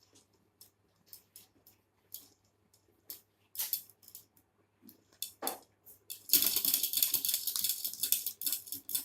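Scattered small clicks and taps, then from about six seconds in a dense crackling rustle that carries on.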